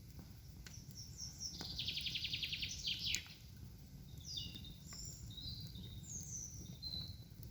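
Songbirds singing: a few high notes, then a fast trill of about a second and a half that ends in a downward sweep, followed by several shorter whistled notes. A steady low rumble and a few faint clicks lie beneath.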